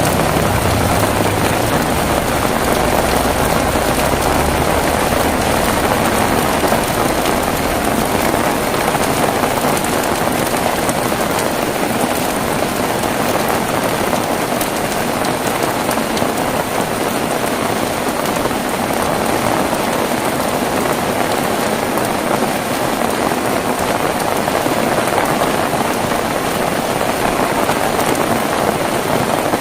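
Heavy rain falling steadily in a dense patter. A low rumble fades out in the first few seconds.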